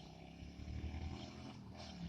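Yamaha motorcycle engine running, faint, with a steady low drone.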